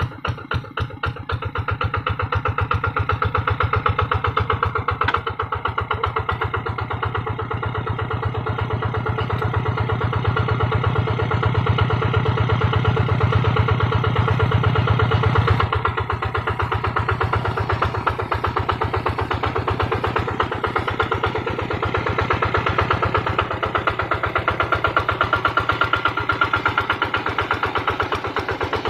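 Kubota RD110 single-cylinder diesel engine of a hand tractor running steadily with a fast, even putt-putt, its note changing about halfway through.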